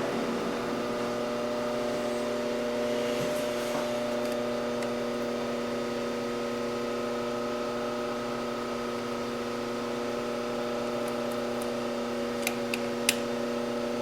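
Metal lathe running steadily with a constant motor hum, a few sharp clicks near the end.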